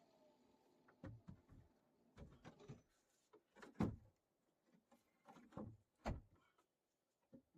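A series of irregular soft knocks and thuds, a dozen or so spread over several seconds, two of them louder than the rest.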